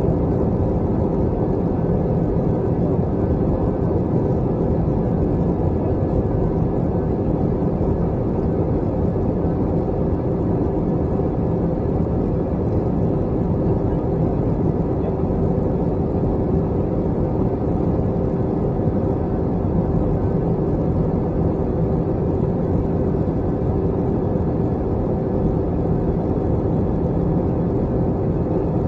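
Steady engine and air noise of an Airbus A321 airliner heard inside its cabin, an even rush with a constant low hum running through it.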